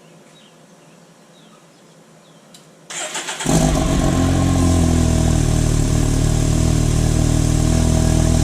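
Can-Am Maverick Turbo side-by-side's turbocharged three-cylinder engine started on its stock exhaust: about three seconds in the starter cranks briefly, the engine catches, and it settles into a steady idle.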